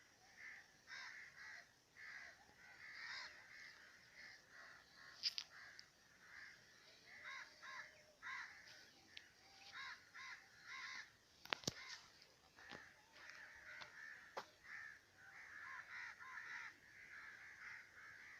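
Faint crows cawing, with many short calls repeated throughout, and a few soft clicks.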